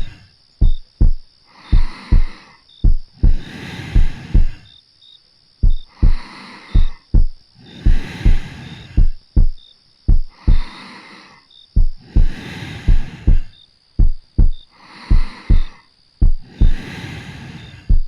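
A slow, steady heartbeat heard up close, its lub-dub double thumps repeating about once a second. Soft, slow breathing rises and falls between the beats every couple of seconds.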